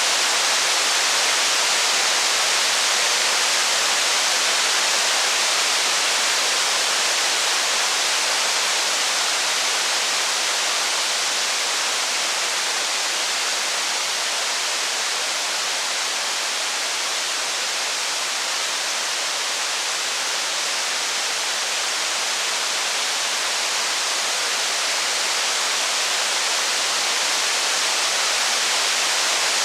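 Steady rain, an even hiss with no single drops, thunder or fire crackles standing out.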